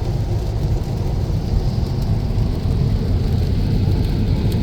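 Steady road noise inside a car driving in heavy rain: tyres on a wet road and rain on the body, a low rumble with a hiss over it.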